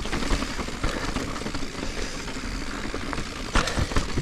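Full-suspension mountain bike riding over rough rock: a steady rush of tyre and wind noise with sharp knocks and rattles from the bike over bumps, several in quick succession near the end.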